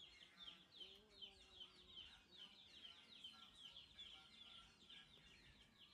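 Very faint birds chirping: a steady run of short, high, falling chirps, about two or three a second.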